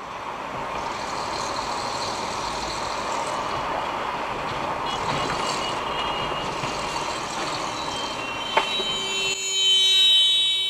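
Steady road and engine noise of a car driving. Near the end, a sharp knock is followed by a louder, sustained high-pitched tone.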